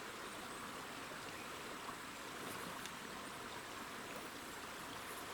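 Small forest river flowing steadily, an even rush of running water.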